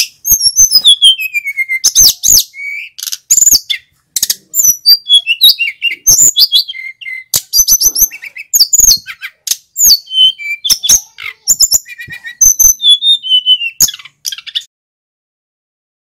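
Male sikatan gunung (a small Indonesian flycatcher) in full song: a fast, varied run of high chirps, trills and falling whistles, broken by short pauses, which stops about a second and a half before the end.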